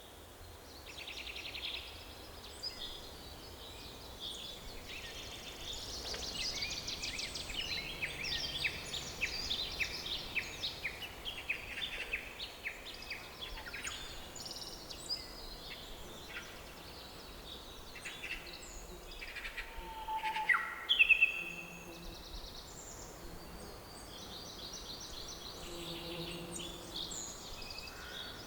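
Forest birds singing and calling, many short chirps, whistles and trills overlapping, over a faint steady background hiss. A louder burst of calls comes about two-thirds of the way through.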